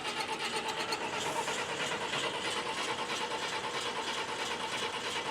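12-valve Cummins diesel in a tractor-pulling tractor being cranked over by its starter, a steady fast rhythmic churn, as the crew tries to get it to start.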